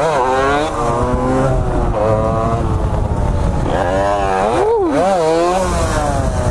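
Dirt bike engine revving up and down several times, its pitch climbing and dropping in quick swings near the start and again about four to five and a half seconds in.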